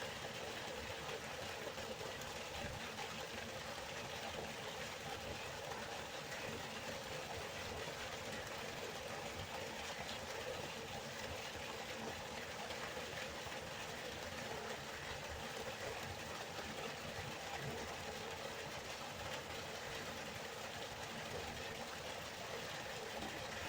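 River water flowing: a steady, even rush of water with no change.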